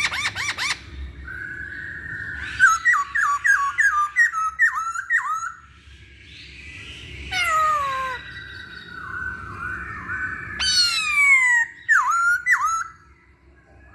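Masked laughingthrush (poksay Hongkong) singing a loud, varied whistled song. It runs from a burst of quick wavering notes into a string of about seven rapid down-slurred whistles, then harsher descending squawks, and ends with two sharp down-slurred notes.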